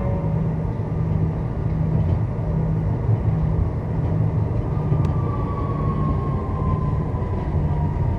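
Tram running, heard from on board: a steady low rumble, with a motor whine that comes in about halfway and slides slowly down in pitch as the tram slows.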